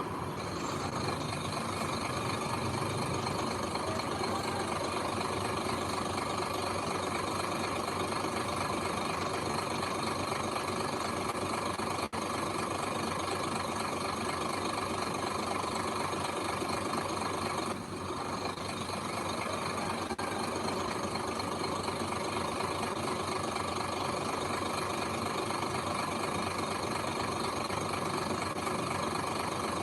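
Heavy earthmoving machine's diesel engine running steadily, with a brief dip in level about eighteen seconds in.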